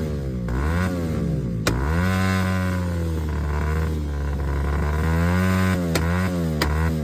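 Motorcycle engine being revved repeatedly, its pitch climbing and falling back several times, with a few sharp cracks from the exhaust as the revs drop.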